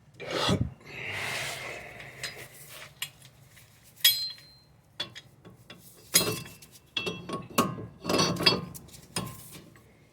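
Metal tools and parts being handled during wheel hub removal: a scrape and a rub, then a string of irregular clinks and knocks, one with a short metallic ring about four seconds in.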